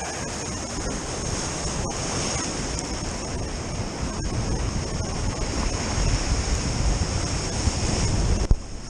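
Sea surf washing against a rocky shore, with wind buffeting the microphone; the low rumble builds toward the end. A couple of sharp clicks, and the sound cuts off suddenly near the end.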